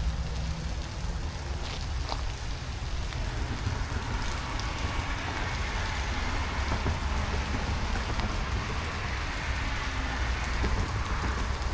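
Steady rain falling, with a low rumble underneath. From about four seconds in, faint high steady tones from an approaching Metra commuter train build toward the end.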